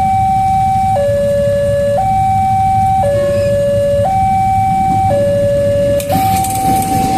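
Railroad level crossing's electronic warning alarm sounding a steady high-low two-tone, switching about once a second, over a low rumble. About six seconds in, the noise of an arriving train cuts in.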